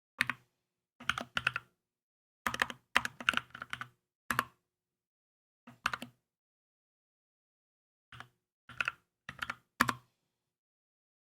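Typing on a Keychron K2 mechanical keyboard in short runs of keystrokes separated by pauses, with a longer gap of about two seconds past the middle.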